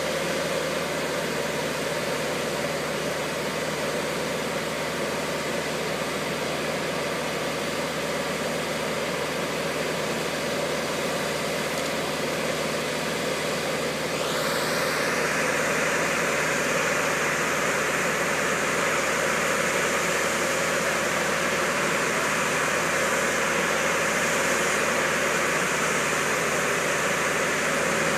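Boat gantry lift's engine running steadily. About halfway through a quick rising sweep comes in, and after it the machine runs louder with more hiss.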